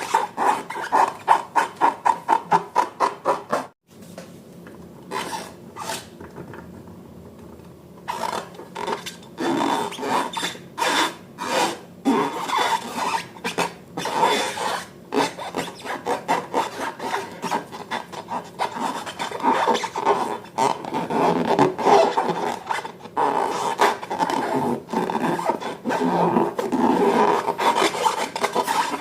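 Slime being stirred and squished, giving rubbing, rasping strokes. They come quickly and regularly at first, stop abruptly, go quieter for a few seconds, then return as an irregular run of squishing.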